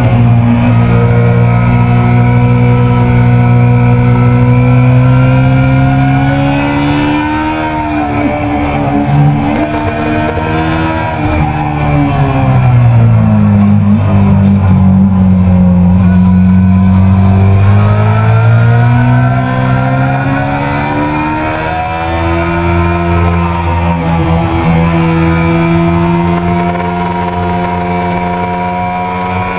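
Yamaha R6 (2000) inline-four engine at high revs on a race track, heard from on board with wind rush. Its pitch falls and climbs again several times, dropping lowest around the middle before rising once more.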